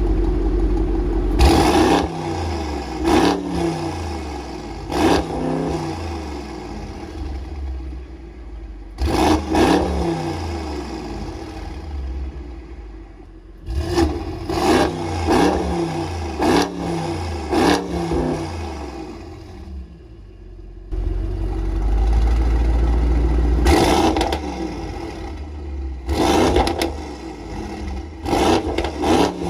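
Mercedes-AMG GT 63's twin-turbo V8 exhaust idling and being revved again and again: sharp throttle blips, some singly and some in quick runs of three or four, each rising fast and then falling back to idle.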